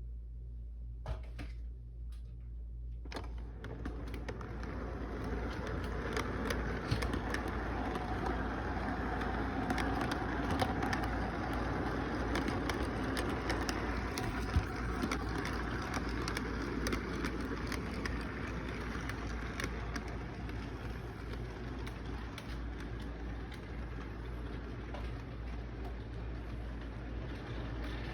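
Model train running along its track with a steady rattle and frequent small clicks, growing louder over the first several seconds, loudest around ten seconds in, then slowly easing off. A steady low hum lies underneath.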